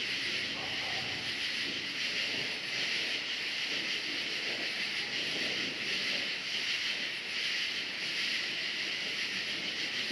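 A dense, steady chorus of crickets chirping, with a low, uneven rumble underneath.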